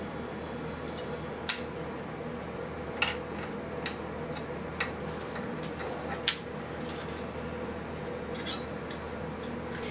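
Scattered sharp clicks and snips of small hand tools while new electrolytic capacitors are fitted into an old wire recorder's chassis, about eight at irregular intervals, over a steady low hum.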